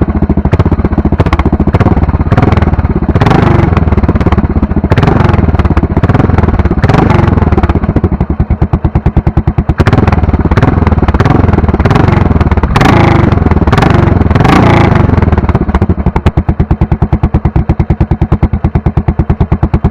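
Royal Enfield Continental GT 535's single-cylinder engine through a megaphone exhaust, idling with distinct evenly spaced exhaust pulses and revved in a series of short throttle blips, about five of them, before settling back to idle for the last few seconds.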